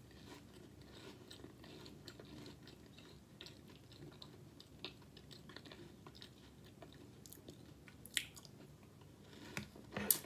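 Faint close-up chewing of cereal in milk: soft crunching and mouth sounds. A sharp click comes about 8 seconds in and a louder one near the end.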